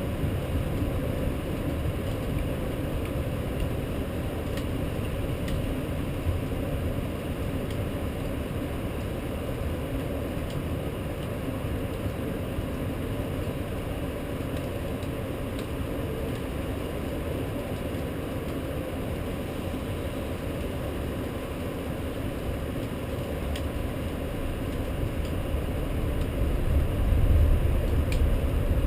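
Steady low rumble of city traffic, with a deeper rumble swelling near the end.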